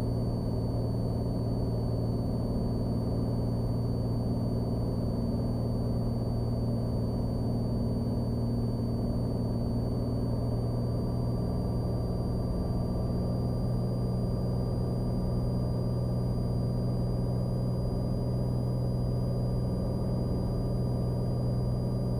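Cessna Skylane's single piston engine and propeller droning steadily, heard from inside the cabin, with a thin steady high tone above it.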